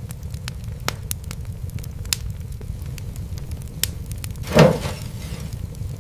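Wood fire crackling: scattered sharp pops over a steady low rumble. About four and a half seconds in comes one louder, longer pop that trails off in a brief hiss.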